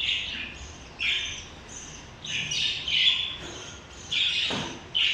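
Pet parrots squawking, harsh calls repeating about once a second.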